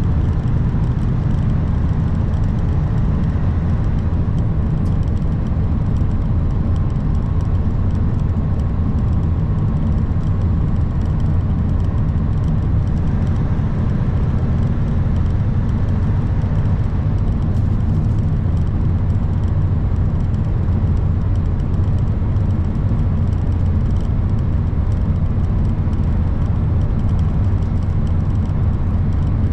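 2021 Kenworth W900 semi truck on the move, its engine and road noise making a steady, unchanging low drone.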